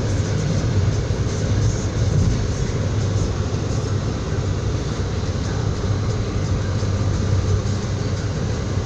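Moving passenger train heard from inside the carriage: a steady, unbroken rumble with a hiss over it.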